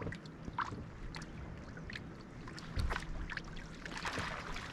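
Water lapping against a fishing boat's hull, with scattered light clicks and knocks and a dull thump about three seconds in.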